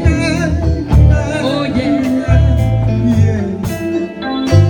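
Live gospel music: a band playing with a singer's voice, wavering in pitch, over a heavy bass line.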